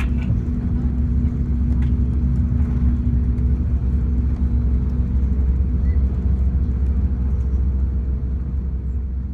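Cabin noise of an Airbus A350-941 taxiing after landing: a steady low rumble with a constant hum, easing slightly near the end.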